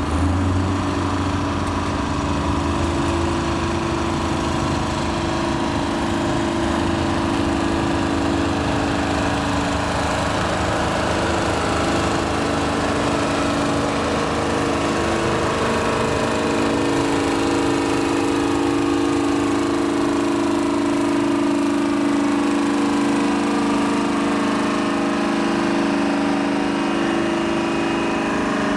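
Antique tractor engines running steadily at low speed, several overlapping, with a deep-pitched engine fading out about nine seconds in while others carry on.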